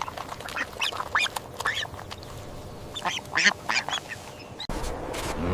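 Ducklings calling: a string of short, high-pitched calls. About four seconds in, the calls stop and a steady rushing background noise comes in abruptly.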